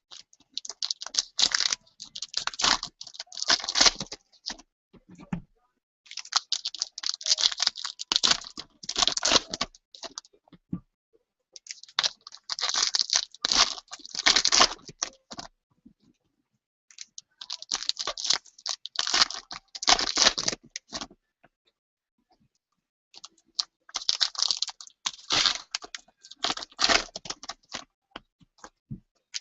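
Packs of trading cards being torn open and the cards handled. Dense crinkling and clicking comes in about five bursts of a few seconds each, with short pauses between them.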